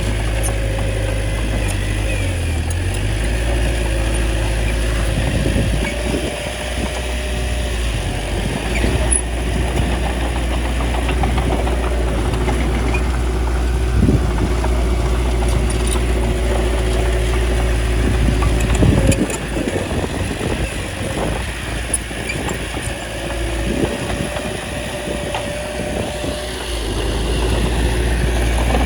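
Small bulldozer's diesel engine running steadily under load while it pushes soil, with a few sharp knocks along the way.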